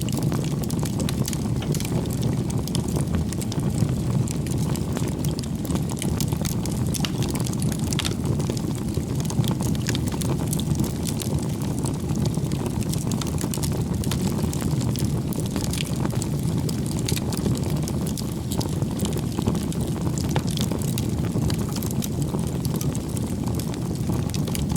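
Bonfire of firewood burning: a steady low rushing of flames with frequent small, irregular crackles and pops from the wood.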